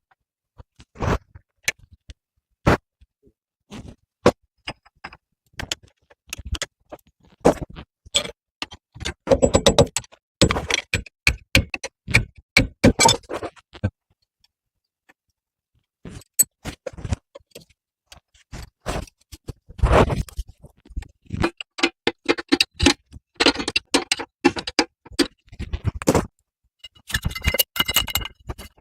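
Tools and metal parts being handled: irregular clicks, taps and short scrapes, with a pause of a couple of seconds about halfway through.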